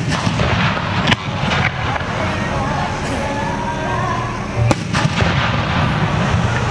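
Aerial fireworks going off in a starmine barrage: about five sharp bangs from shells bursting, over a continuous rumble of further bursts and launches.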